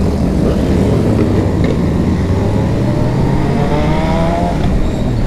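Sport motorcycle engines running together on a group ride. One engine climbs steadily in pitch from about two to four and a half seconds in as it accelerates.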